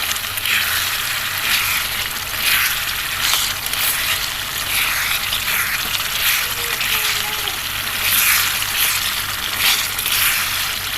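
Chicken pieces sizzling in a pan of curry masala as a spoon stirs and scrapes through them, the scrapes coming roughly once a second; the stirring keeps the meat from sticking to the bottom.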